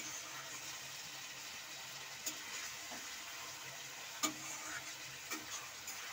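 Onion, capsicum and tomato sizzling in sauce in a kadai, stirred with a metal spatula that scrapes and clicks against the pan a few times.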